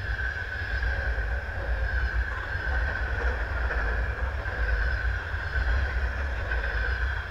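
A train passing close by on the rails, its sound swelling in at the start and then running loud and steady. It holds a deep rumble with a steady high whine on top.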